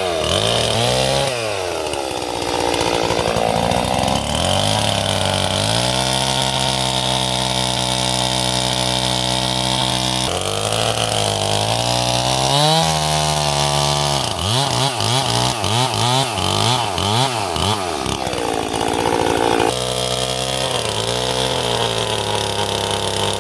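Chainsaw cutting a storm-broken peach tree. The engine pitch rises and falls as it revs, holds steady for a few seconds in the middle, then swings rapidly up and down several times.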